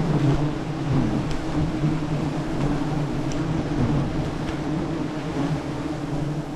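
A swarm of giant honey bees buzzing around their comb: a steady, continuous drone.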